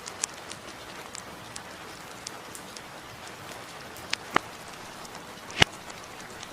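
Steady hiss of light rain with scattered sharp crackles and pops from a wood fire, the loudest pop about five and a half seconds in.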